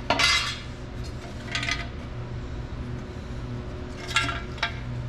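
Small metal parts clinking and scraping in four short bursts, over a steady low hum.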